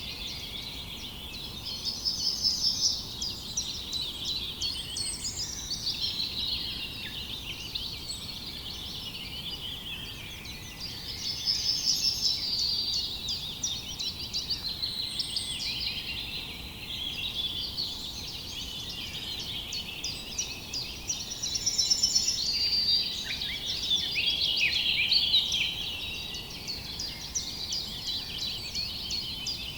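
A chorus of many small songbirds chirping and trilling continuously, their quick high calls overlapping, growing busier and louder a few times before easing back.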